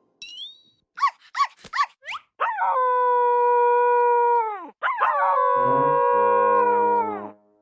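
A dog yelping three times quickly, then howling in two long held howls, each trailing off downward at the end. Low steady notes join under the second howl.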